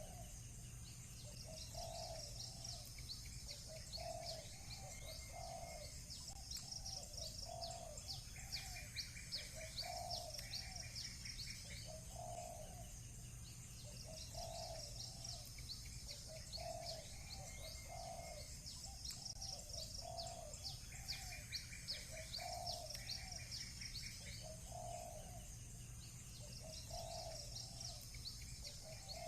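Doves cooing, a short low call repeating every second or two, over small birds chirping high and fast throughout. Twice a quick buzzy trill sounds for a couple of seconds, and a steady low rumble lies beneath.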